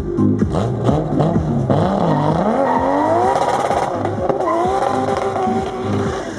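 Nissan Skyline R33 drift car's twin-turbo RB26 straight-six running hard. The revs climb steadily, dip briefly about four seconds in, rise again and then hold steady at high revs.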